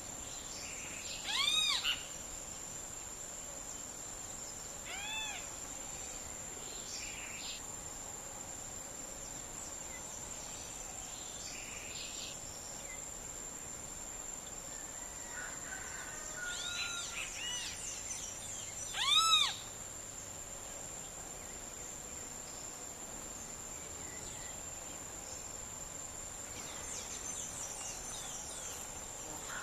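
Short wild animal calls, each a brief arched note with overtones, about five of them scattered through, the loudest about two-thirds of the way in, over a steady thin high-pitched whine.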